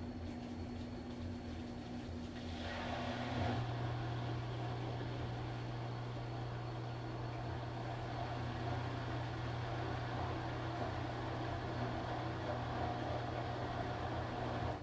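Washing machine running with a steady motor hum; about three seconds in its motor note shifts lower and the machine gets louder, then runs on steadily.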